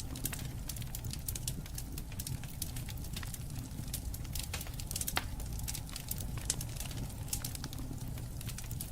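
Wood fire crackling, with frequent sharp pops and snaps over a steady low rumble of the flames; one louder pop comes about five seconds in.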